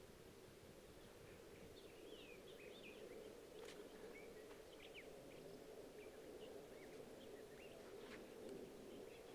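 Quiet outdoor ambience: faint, scattered bird chirps with short gliding notes over a steady low hum, and a few faint clicks.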